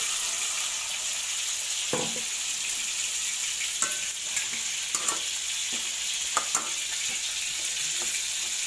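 Blended masala paste sizzling in hot butter in an enamel pot, an even hiss, while a metal spoon stirs it and clinks against the pot's side several times.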